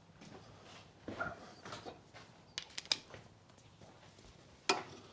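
A few scattered sharp metal clinks and knocks of hand tools: a socket and ratchet being picked out and handled while bolting the brake caliper carrier back on.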